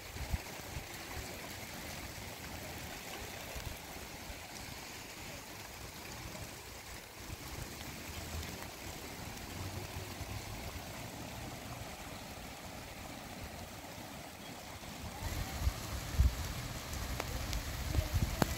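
Steady rain falling, an even hiss, with a few low thumps near the end.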